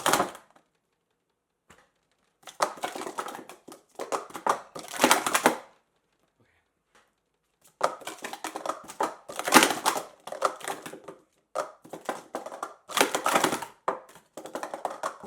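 Plastic sport stacking cups clattering in quick runs of clicks as they are stacked up and down at speed, in several bursts of a second or three with dead silence between them.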